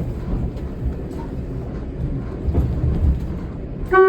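Steady rumble of a single-car diesel railcar running along the line, heard from its cab. Near the end the railcar's horn starts to sound for a level crossing.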